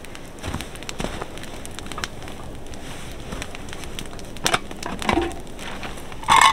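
Wood fire crackling with scattered sharp pops, and a louder brief scrape or knock shortly before the end.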